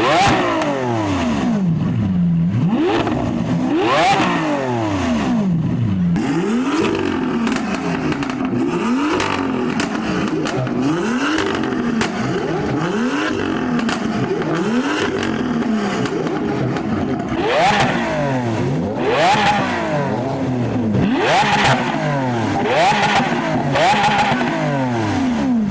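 Several stationary performance cars revving over and over, led by a Lamborghini Aventador's V12 and a second Lamborghini. Their engine notes climb and fall every second or two and overlap one another, with a few sharp, quick blips near the end.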